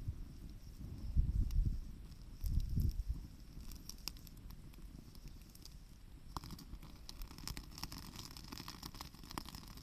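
Wood campfire crackling and popping with many sharp little snaps, more of them in the second half. Low rumbling gusts of wind on the microphone come twice in the first three seconds.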